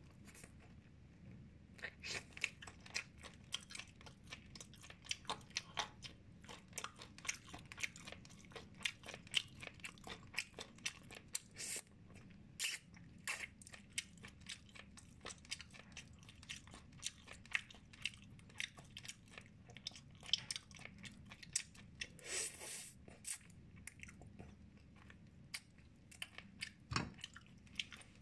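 Close-miked ASMR chewing and biting of steamed chicken: a steady run of small wet clicks and crackles, with a few louder noisy smacks along the way.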